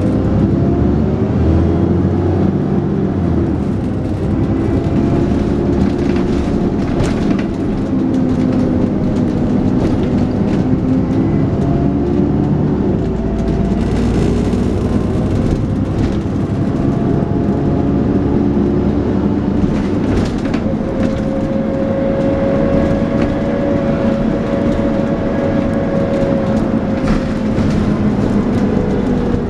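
Dennis Trident 2 double-decker bus with a Cummins ISL engine, heard on board while driving: the engine and drivetrain note rises and falls in pitch as it pulls and changes gear, with a steady whine building in the latter part and occasional body rattles.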